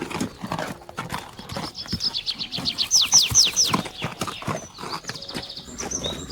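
Horse hooves clip-clopping, with a horse whinnying about a second and a half in: a long, quavering call that falls in pitch.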